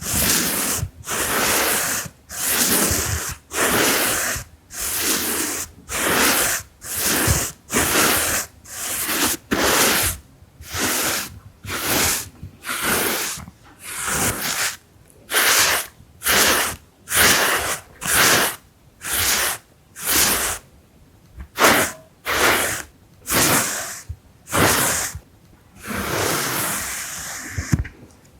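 Fan brush sweeping in repeated strokes across the microphone or lens: a steady run of soft bristly swishes, about one a second, with a longer sweep near the end.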